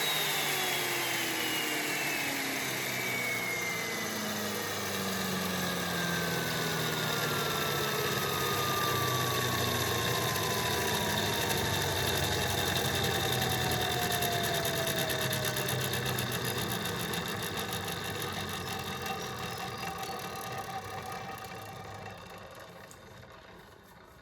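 Electric motor and spindle of a mortising machine coasting down after being switched off: a whine that falls steadily in pitch for about seventeen seconds as the machine spins down, with the hum fading out near the end.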